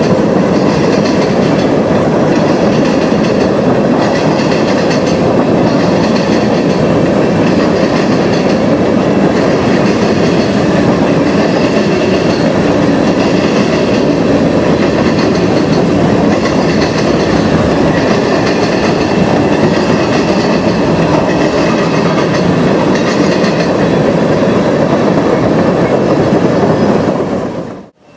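Freight train cars rolling past close by: steel wheels clack over the rail joints in a steady repeating rhythm, about once a second. The sound cuts off abruptly near the end.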